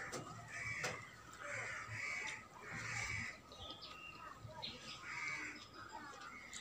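A bird calling again and again, short calls coming roughly once a second, with a few sharp clicks from hand-eating off a steel plate.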